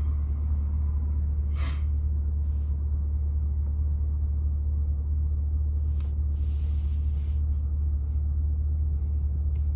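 2020 C8 Corvette's 6.2-litre LT2 V8 idling steadily, a low rumble heard inside the cabin, with a few light clicks and a short hiss about two-thirds of the way in.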